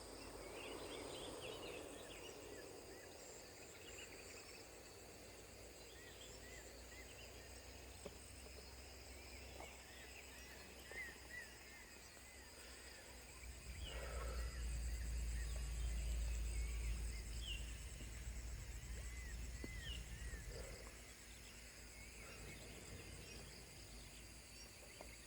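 Birds calling with repeated short, arching chirps over a steady high insect drone. About midway a low rumble swells for several seconds and fades, the loudest sound here.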